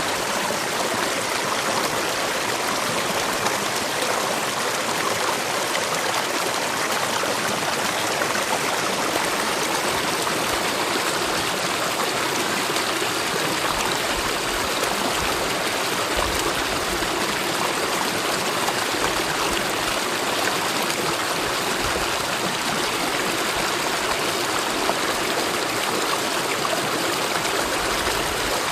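Mountain valley stream flowing in a steady, even rush of water.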